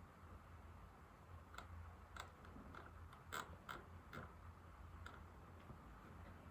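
Slow, scattered keystrokes on an old laptop keyboard: about seven faint, separate key clicks at uneven intervals, over a low steady hum.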